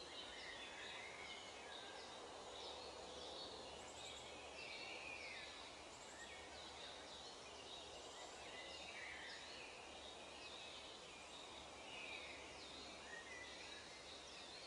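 Faint birdsong: many short chirps and quick rising and falling calls from small birds, over a steady hiss.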